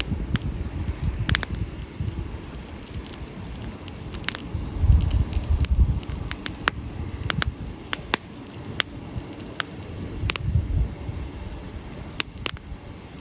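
Wood campfire crackling, with irregular sharp pops and snaps over a low rumble that swells about five seconds in and again later.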